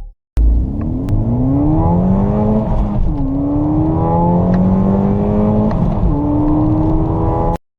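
Car engine accelerating hard from a standstill, the pitch climbing through the revs, dropping sharply at two upshifts about three and six seconds in, then climbing again before the sound cuts off abruptly.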